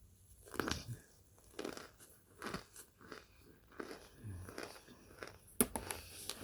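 Close-up crunching and chewing of microwave-baked Kingsford's cornstarch chunks: a crisp crunch about once a second, with a sharper crack near the end.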